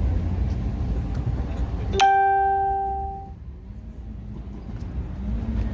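A single bell-like chime about two seconds in, struck once and ringing out over about a second. It sits over a low rumble, which falls away while the chime sounds and comes back near the end.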